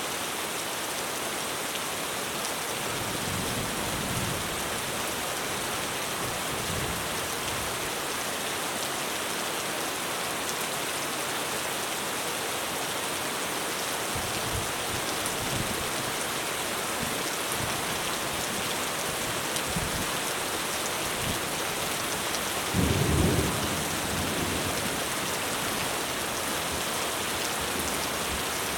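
Heavy rain drumming steadily on a roof, with low rolls of thunder rumbling several times and the loudest thunder clap about three-quarters of the way through.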